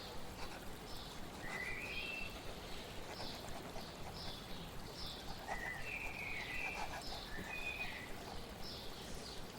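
Small birds chirping and singing: quick high chirps repeated through, with a few short whistled phrases, over a steady hiss of flowing water.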